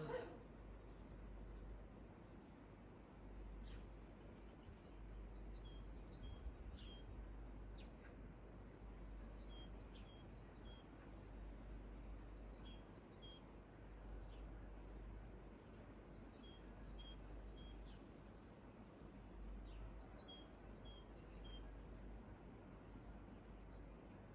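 Faint outdoor dawn sound: a steady high insect trill runs throughout, while a small bird repeats a short phrase of three or four quick chirps every three to four seconds. A brief knock right at the start.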